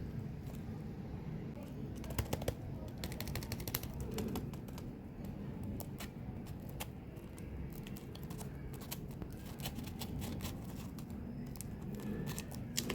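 Chewing-gum packaging handled close to the microphone: a run of small sharp clicks and crackles, thickest about two to four seconds in, then scattered taps.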